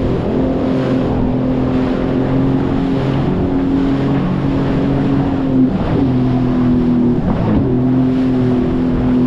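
Sea-Doo Fish Pro jet ski running at speed, its engine holding a steady note with two brief dips in pitch past the middle, over wind and water noise.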